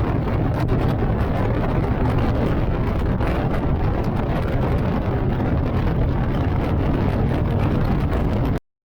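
Motorcycle engine running steadily under way, mixed with wind rush; it cuts off suddenly near the end.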